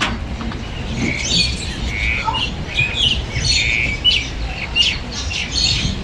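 Many birds squawking and chirping in a rapid run of short, overlapping high calls.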